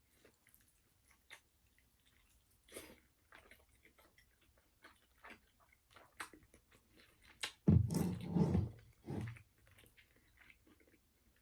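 Close-miked chewing and mouth sounds of eating KFC food dipped in honey mustard: scattered small wet clicks, with a louder stretch of chewing around eight seconds in.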